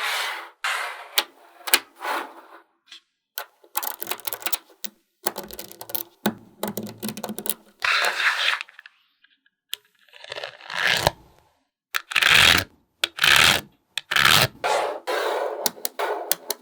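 Small magnetic balls clicking and rattling against one another as they are handled and snapped together while building, in irregular bursts of sharp clicks with brief pauses between.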